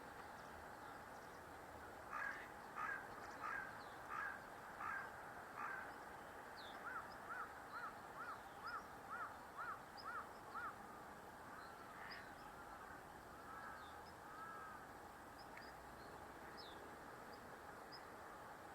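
A bird calling in a long repeated series: about six harsh calls starting about two seconds in, then a run of about ten clearer arched calls, about two a second, trailing off into softer calls. Faint high chirps of small birds are scattered throughout.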